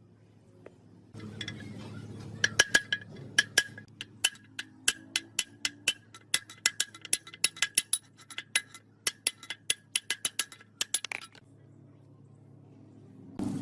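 A quick, uneven run of sharp metallic clinks or taps, about four a second for some eight seconds, each with a short ring, over a low steady hum.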